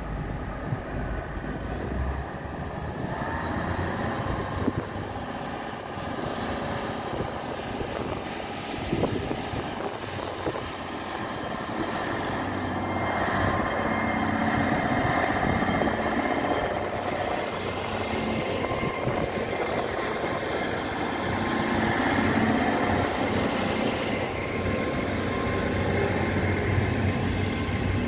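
Great Western Railway Class 800 bi-mode train pulling away slowly under diesel power, its underfloor engines running steadily, with a thin high whine that climbs slowly in pitch through the second half as it gathers speed.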